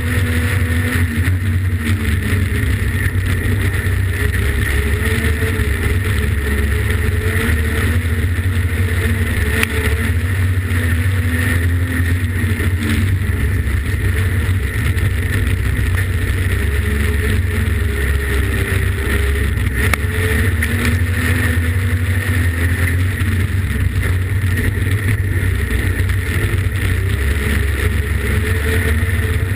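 Streetstock race car's engine heard from inside the cabin, running hard with its pitch rising and falling a little as it laps a dirt oval.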